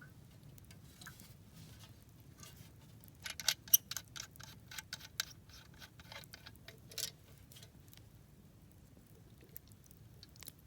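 Campfire crackling: a cluster of sharp, irregular pops and snaps around the middle, with a few single ticks near the end.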